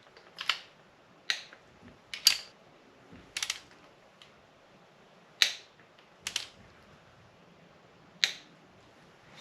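Click-type torque wrench clicking sharply as it reaches its 25 ft-lb setting on the cylinder head bolts of a 6.0 LS V8, about eight single or doubled clicks a second or two apart.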